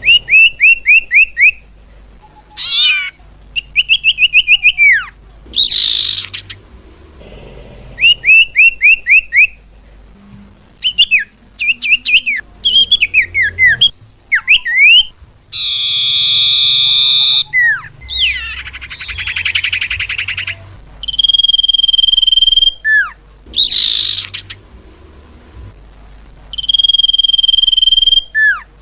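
Cipau (common iora) song played as a bird lure. It is a varied sequence of rapid strings of short down-slurred whistled notes, a few harsh buzzy calls and several long level whistles, with short pauses between phrases.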